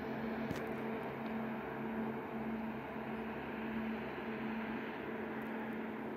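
Regional train's diesel engine heard from afar as it pulls away, a low hum that wavers in level about twice a second over a steady rushing sound, slowly fading.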